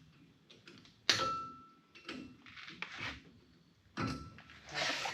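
Metal hand tools clanking and clinking against the front wheel hub while the cotter pin is worked out of the spindle: one sharp clank with a short ring about a second in, then lighter clinks and scrapes, busier near the end.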